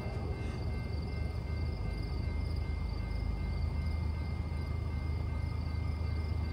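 Low, steady rumble of an approaching CSX diesel freight train, growing slightly stronger near the end, with crickets chirping in a steady pulsing rhythm.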